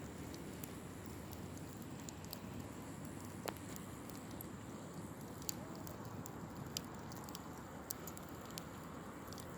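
Wood campfire burning, with irregular sharp crackles and pops over a steady low rumble; one louder pop about three and a half seconds in.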